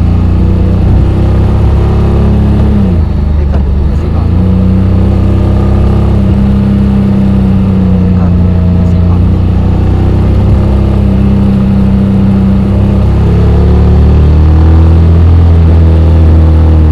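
Honda X-ADV 750's parallel-twin engine running while riding, its pitch dropping sharply about three seconds in, then holding steady and climbing again near the end.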